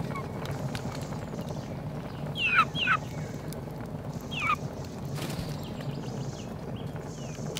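Three short bird calls, each falling steeply in pitch: two in quick succession, then a third about a second and a half later, over a steady low background.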